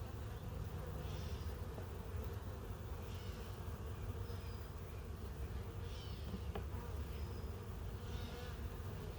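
Honey bees buzzing steadily around an opened hive. A short high chirping call repeats about once a second behind the hum.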